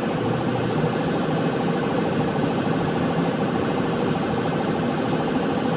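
Steady engine and road noise inside a moving patrol car, with a faint, fast evenly pulsing tone running through it.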